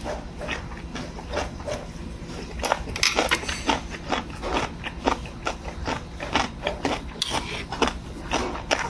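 Close-up eating sounds: a person chewing with frequent smacking mouth noises, mixed with chopsticks and a spoon clicking against bowls and side-dish plates.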